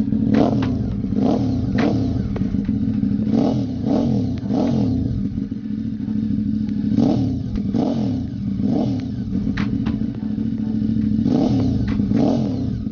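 Ducati 848 Evo's L-twin engine running through a new race exhaust, idling with repeated short throttle blips that each rise and fall quickly, about a dozen in all.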